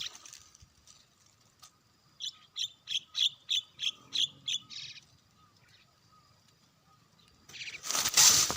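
A bird calling a quick series of about eight short, high, repeated notes at roughly three a second, ending in one slightly longer note. Near the end a sudden loud, noisy rush of sound starts.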